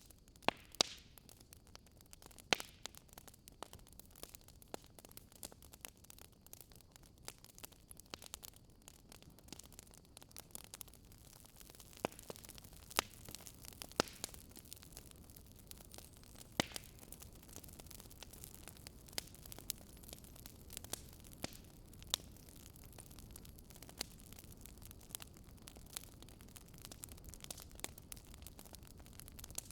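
Wood fire crackling: irregular sharp pops and snaps, some louder than others, over a low steady hiss of burning.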